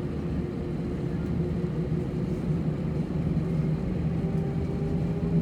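Airbus A320 cabin noise on the ground, with the IAE V2500 engines idling: a steady low rumble with a constant hum running through it.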